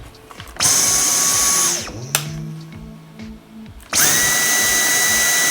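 Dyson cordless vacuum's motor run twice in short bursts of a second or two each, a high whine that starts abruptly and winds down when the trigger is released. It is a test run on the freshly repaired battery pack.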